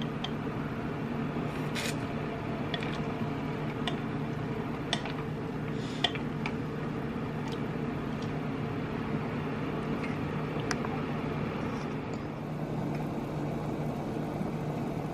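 A pot of tomato hotpot broth simmering on the stove: scattered small pops and clicks over a steady low mechanical hum.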